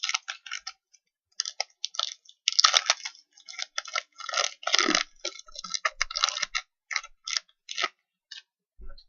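Crinkling and rustling of a trading-card pack being torn open and handled: an irregular run of short, crisp crackles.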